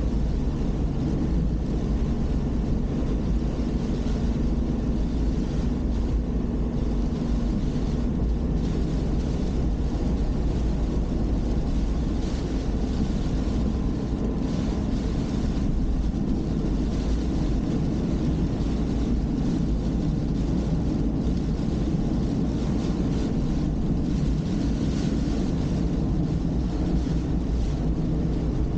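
Car driving on town roads, heard through a dashcam: a steady low rumble of engine and tyre noise, with a faint steady hum about four to eight seconds in.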